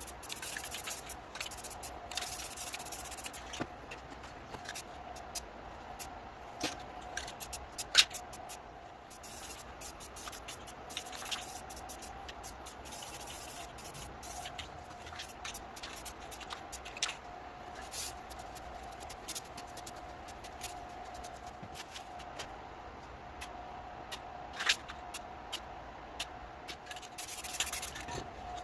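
Paintbrush strokes rubbing across the painting surface, with scattered light taps and clicks, over a steady faint hum.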